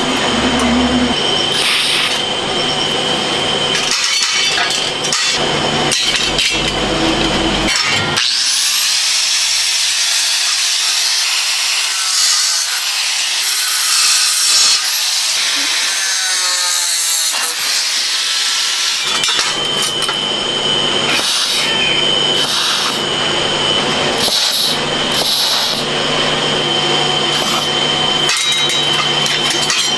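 Workshop power tool running with a steady machine hum and a high whine. About a third of the way in, a brighter high-pitched cutting sound with rising whistling tones takes over for roughly ten seconds, then the steady machine noise returns.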